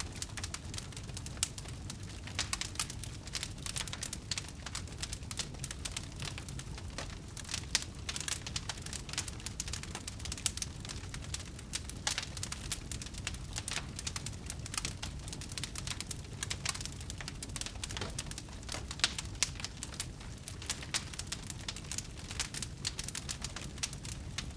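Wood fire crackling in a fireplace: many irregular sharp pops and snaps over a low, steady rumble of the flames.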